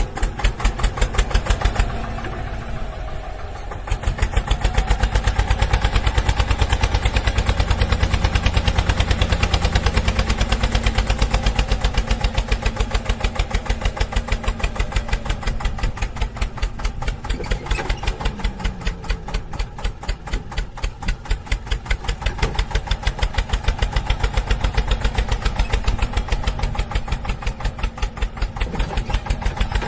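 An engine running with a steady rhythmic chug of about five beats a second. It drops briefly quieter about two seconds in, then picks up again.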